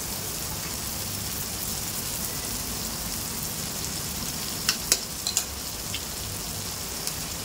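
Raw egg and spiced masala sizzling in hot oil in a pan, a steady frying hiss. A few sharp clicks come about five seconds in.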